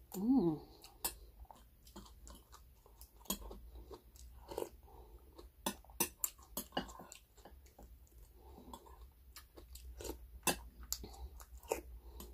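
Close-miked eating sounds: chewing with many short, sharp wet mouth clicks and smacks, and now and then a spoon knocking in a glass bowl. A short vocal sound comes right at the start.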